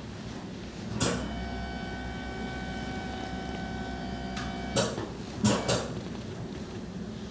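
A small electric device starts with a click and runs at a steady pitch with a low hum for about three and a half seconds, then stops, followed by a few short knocks.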